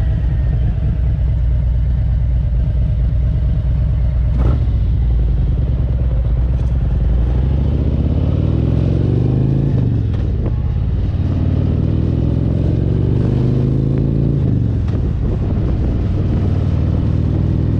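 Motorcycle engine running at a steady idle, with a single clunk about four seconds in, then pulling away. Its pitch rises, drops back at a gear change about ten seconds in, rises again and drops at another shift near fifteen seconds.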